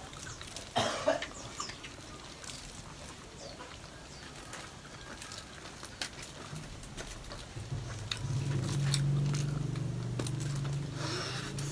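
Eating sounds: scattered clicks of utensils and dishes and chewing. From about eight seconds in, a low steady hum with several tones becomes the loudest sound.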